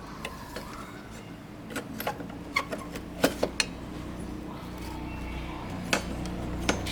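Light clicks and taps of small hard parts and tools being handled, about ten scattered strikes with the sharpest cluster a little past three seconds in, over a steady low hum.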